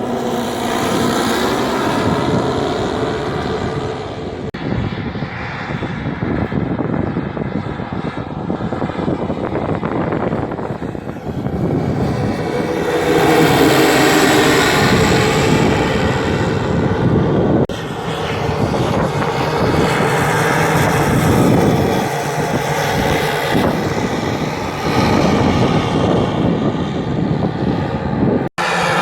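Radio-controlled scale model of the Dornier Do X flying boat in flight, its motors and propellers running steadily. It grows louder about halfway through as it passes closer, and the sound breaks off abruptly twice.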